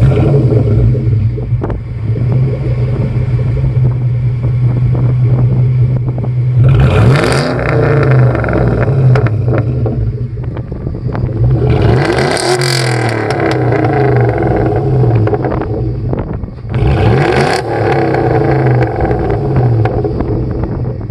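1998 Ford Mustang SVT Cobra's engine and exhaust running at a steady note, then revved up and let back down three times, about seven, twelve and seventeen seconds in.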